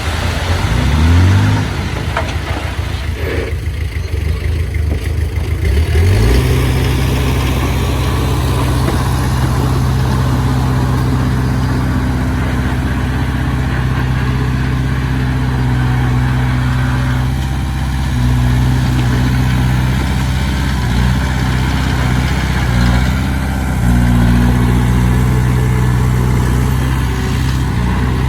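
Heavy diesel engine running under work, revving up about a second in, then holding a steady speed with brief dips and pick-ups later on.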